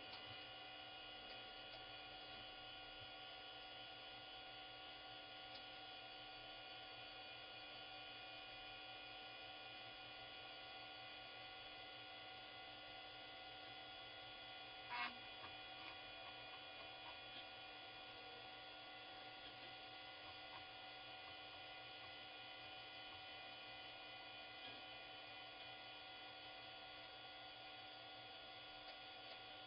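Faint, steady electrical hum with several steady higher-pitched whining tones from running computer hardware, and a single short click about halfway through.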